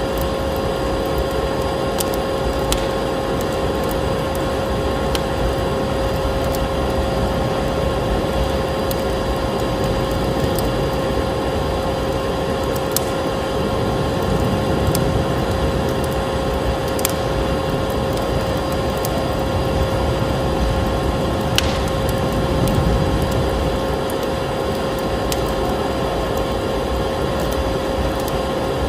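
Vacuum cleaner running steadily, a constant whining drone, mixed with a wood fire crackling in a fireplace, with an occasional sharp pop every second or two.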